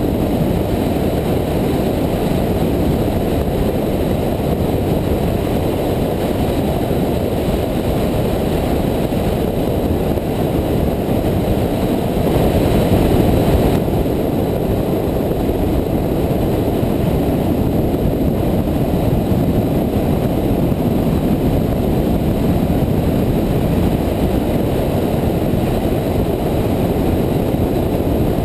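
Wind rushing over the microphone of a Honda VFR800 motorcycle riding at speed, with the bike's V4 engine running steadily underneath; the rush swells briefly about twelve seconds in.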